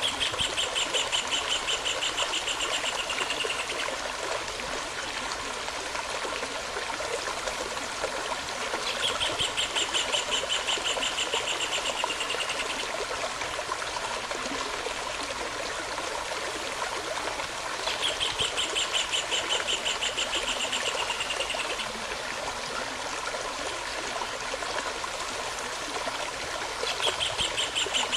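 A stream running steadily, with a songbird singing a fast trill of about three and a half seconds that comes back every nine seconds or so, three times through and a fourth time starting near the end.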